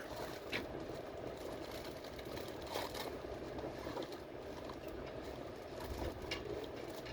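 Steady running noise heard inside a moving subway train car: a constant rumble with a few faint clicks.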